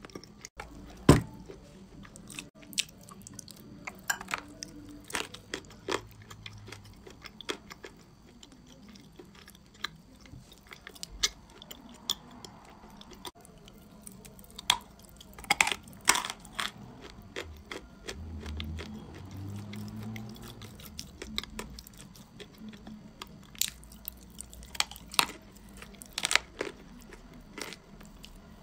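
A person biting and chewing a chunk of chalk coated in wet clay paste: irregular sharp crunches between stretches of chewing, the loudest about a second in and again around the middle.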